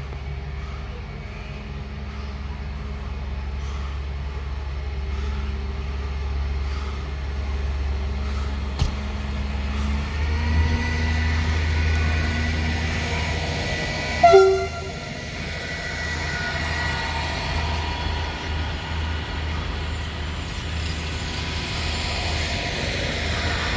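DPKr3 diesel multiple unit running with a steady low diesel drone that strengthens about ten seconds in, and a single short, loud blast of its typhon horn about fourteen seconds in.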